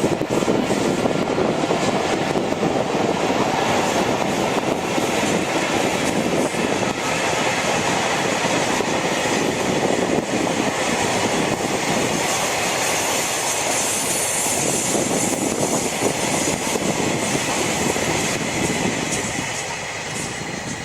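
Freight train hauled by double-headed EF64 electric locomotives rolling past, its wheels running on the rails in a steady, loud stream of noise that fades near the end.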